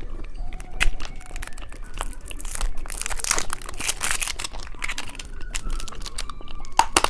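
Plastic candy wrapper crinkling, densest for a couple of seconds about three seconds in, among short crunching clicks from hard candy being handled and eaten.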